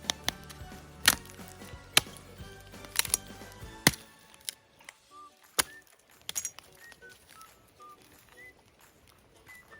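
Wood being chopped: five sharp blows about once a second, over faint background music. After the chopping stops, a bird calls with short whistled notes.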